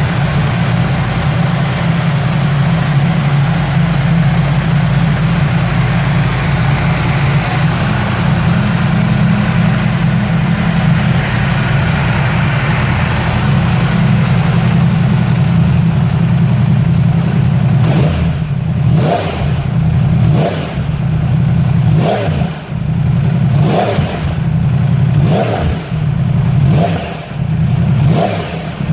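2016 Yamaha R1 superbike engine, a crossplane inline-four, running steadily. From about two-thirds of the way in it is revved in a series of short blips, roughly one every second and a half.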